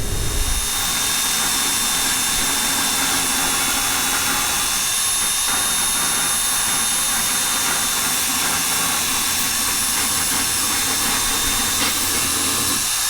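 Steady rushing, hissing air noise, even in level, with a faint thin high whistle on top.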